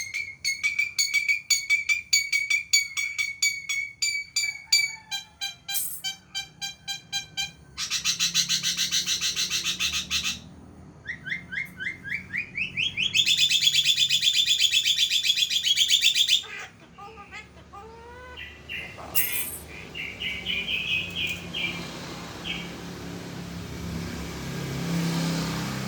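Javan myna calling and chattering in a long varied run: repeated clear notes, fast rattling trills and quick rising slurs, turning fainter for the last several seconds.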